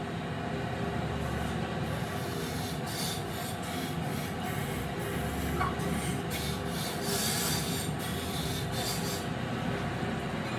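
Abrasive work on wood, sanding or rasping: a steady scraping noise with surges of high hiss every second or so.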